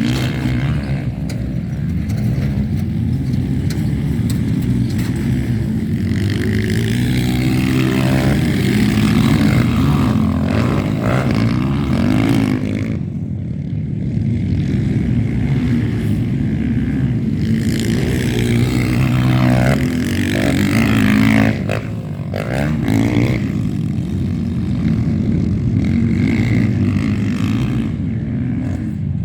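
Motocross motorcycle engines running hard and revving, their pitch rising and falling again and again as the bikes accelerate and pass.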